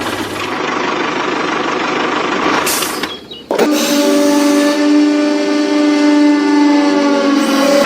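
Small motor whirring. A rough, noisy run is cut off briefly about three seconds in, then the motor hums steadily at one pitch.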